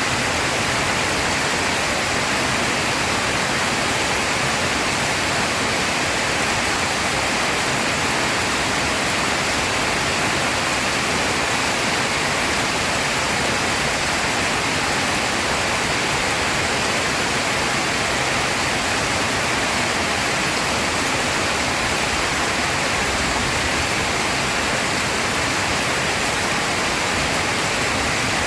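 Heavy rain pouring down as a steady, unbroken hiss, with no thunderclaps.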